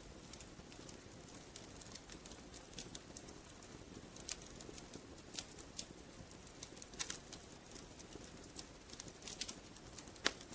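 Wood fire crackling in a fireplace: irregular sharp pops and snaps over a low, steady hiss. The louder pops come about four, seven and ten seconds in.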